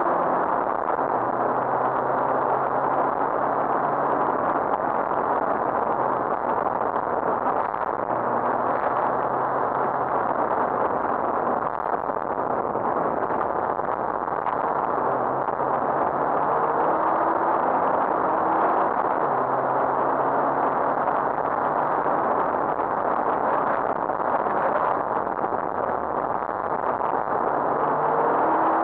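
Rally car engine heard from inside the cabin, pulling up through the revs and dropping back at each gear change, several times over, under a loud steady rush of road and wind noise.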